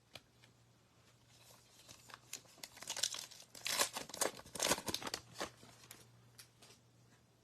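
Trading card pack wrapper being torn open and crinkled, with a run of crackling rustles about two seconds in that dies away after about five seconds.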